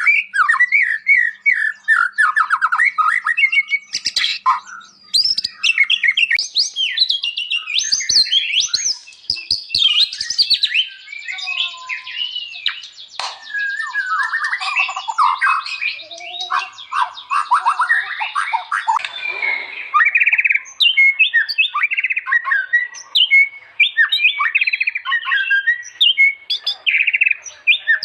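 White-rumped shama singing without pause: a fast, varied run of whistled phrases, glides and chattering notes.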